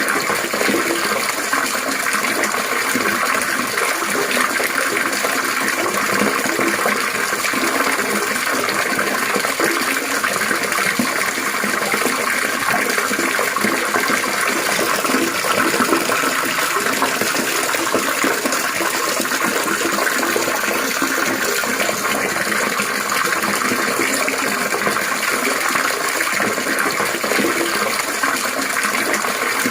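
Water trickling and splashing steadily, a constant unbroken gurgle with no pauses.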